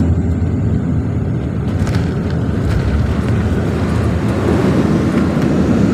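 Cabin noise inside a Dash 8-400 turboprop airliner on final approach: a steady, low drone of its two turboprop engines and propellers mixed with airflow.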